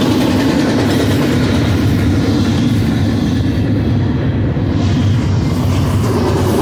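Double-stack intermodal freight train's well cars rolling past on the mainline: a steady, loud rumble of steel wheels on rail.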